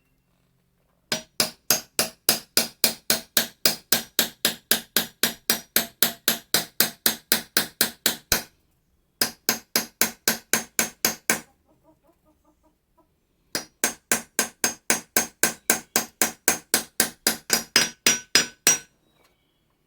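Austrian scythe blade peened with a hammer: steady, even blows about three or four a second, each with a short metallic ring. The blows come in three runs with brief pauses between them. This is the cold-hammering that thins the cutting edge.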